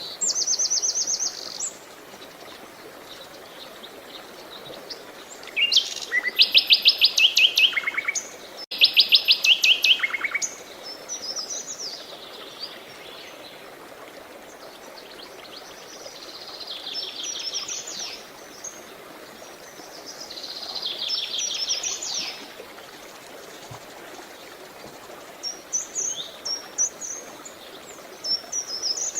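Songbirds singing: trilled phrases of rapidly repeated high notes every few seconds, with quick separate chirps near the end, over a steady background rush of running water.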